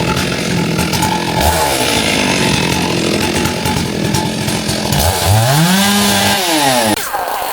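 Handheld petrol garden power tool running: its engine revs up about five seconds in, holds high briefly, then drops back.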